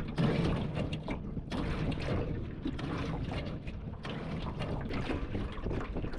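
Wind buffeting the microphone on a small boat out on the water: an uneven, gusty rumble with rapid flutters.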